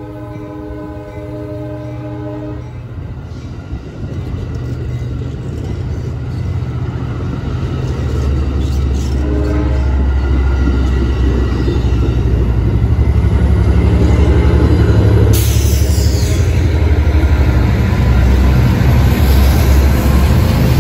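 Diesel locomotive horn sounding a chord that ends about two and a half seconds in, then a short toot about nine seconds in. Meanwhile the train's low rumble builds until it is loud and steady.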